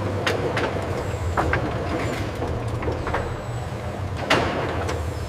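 A vehicle engine runs with a steady low rumble, with scattered light clicks and knocks over it. This fits a truck or forklift moving goods for dispatch.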